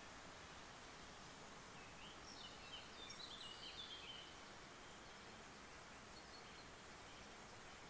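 Near silence with a steady faint hiss; a couple of seconds in, a small bird gives a quick run of short high chirps lasting about two seconds.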